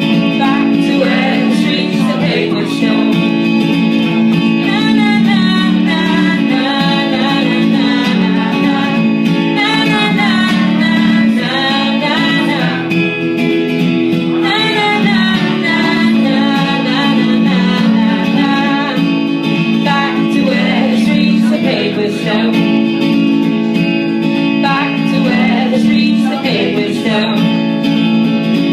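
Live music: a female vocalist singing over guitar backing.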